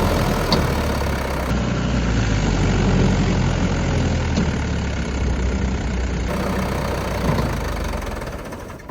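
Diesel tractor engine running steadily, growing quieter near the end.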